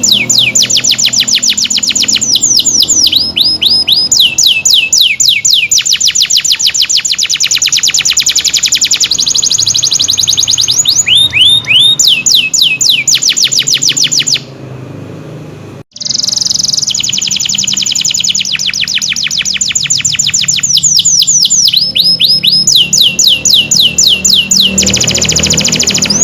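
Domestic canary singing in full voice: fast rolling trills, runs of quick downward-sweeping whistles and rapid repeated notes, with a short quieter pause a little past halfway before the song picks up again.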